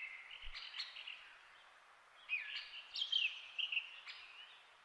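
Small songbirds chirping and twittering in short high notes, with a brief lull in the middle.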